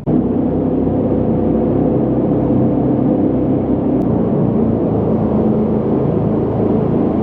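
Jet boat engine running loud and steady, with a constant hum over a rushing noise; it comes in abruptly at the very start.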